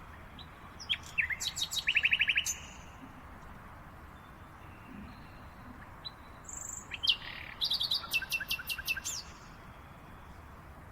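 Songbirds singing in two bouts of quick chirps and trills, about a second in and again around seven seconds, over a steady background hiss.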